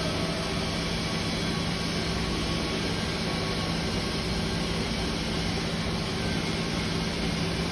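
Electric arc welding: a steady, unbroken hiss from the arc over a constant low hum.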